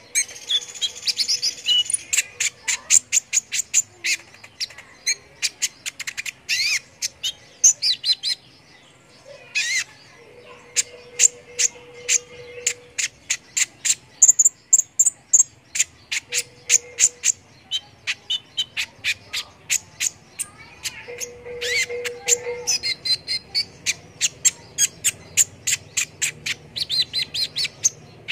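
Small songbirds chirping rapidly: sharp high calls a few per second mixed with short trills, going on with only brief pauses.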